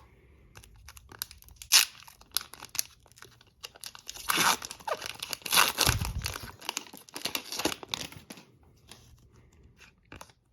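Plastic-foil hockey card pack being torn open and its wrapper crinkled: a run of crackly rips and rustles, loudest and densest in the middle.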